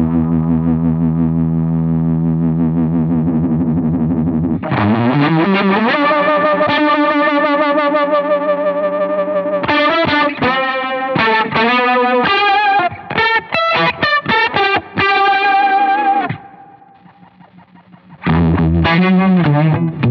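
Electric guitar played through Fulltone OctaFuzz and Mini DejaVibe pedals, fuzzy and wavering. A held chord gives way to a slide up into sustained notes, then quick runs. The playing briefly drops away near the end before resuming.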